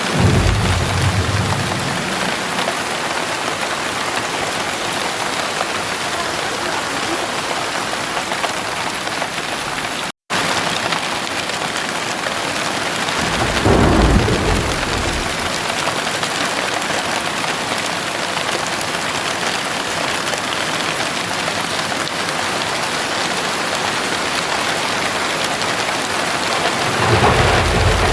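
Heavy rain falling steadily, with low rolls of thunder rumbling three times: at the start, about halfway through, and near the end. The sound cuts out for a split second about ten seconds in.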